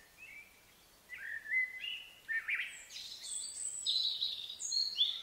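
Birds chirping and singing: a run of short whistled notes, sweeps and trills, sparse at first and busier from about a second in, over faint background hiss.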